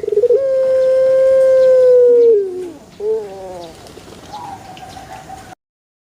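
Puter pelung dove (Streptopelia risoria) singing: a long drawn-out note held steady for about two seconds that drops in pitch at its end, followed about three seconds in by a shorter wavering cooing phrase. The sound cuts off suddenly near the end.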